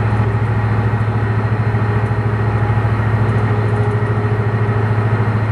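Boat engine running steadily: a loud low drone with a fast, even pulse.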